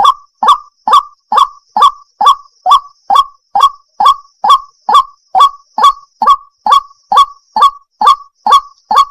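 White-breasted waterhen (ruak-ruak) call used as a bird lure: a short, rising croaking note repeated at an even pace, a little over two a second, without a break.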